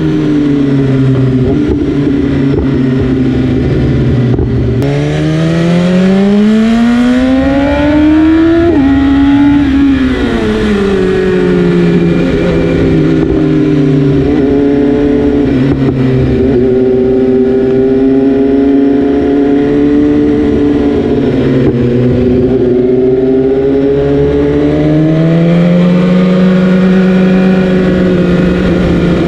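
BMW S1000RR's inline-four engine heard onboard while riding, the revs climbing steeply for about four seconds from around five seconds in, then dropping and falling away as it eases off, and running steadier later on.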